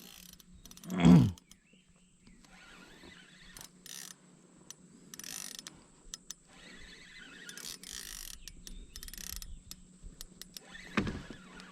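Small spinning fishing reel being wound in short spells, its gears and ratchet clicking. There is a loud, brief whoosh falling in pitch about a second in.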